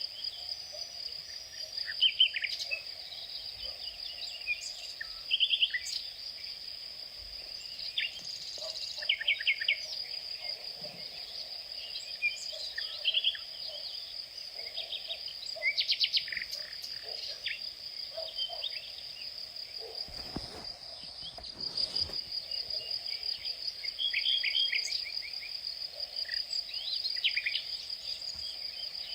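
An insect trills steadily on one high pitch while birds chirp in short, scattered calls.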